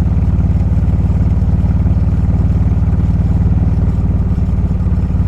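Motorcycle engine running steadily while riding, with an even low firing pulse and no change in pitch.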